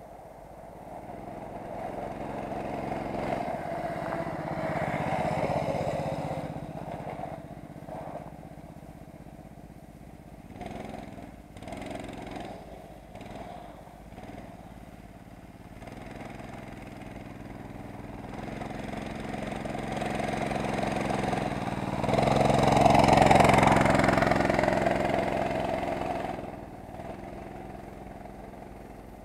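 Homemade motorcycle engine running, swelling louder twice: once a few seconds in and more strongly about two-thirds of the way through, then fading.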